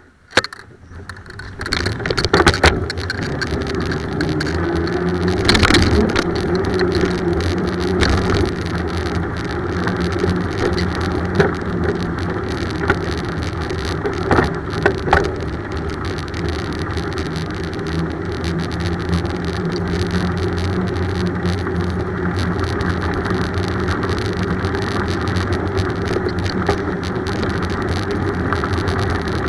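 Steady road and wind noise from a moving bicycle ride, with a low hum and occasional sharp rattles or knocks. It rises out of near silence within the first two seconds, then stays loud and even.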